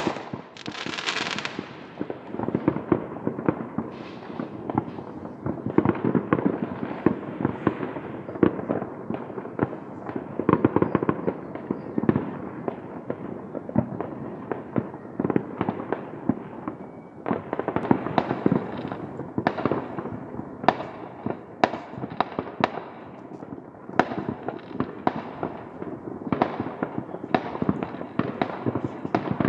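Many fireworks going off at once: a continuous run of bangs over dense crackling, with more distinct sharp bangs in the second half.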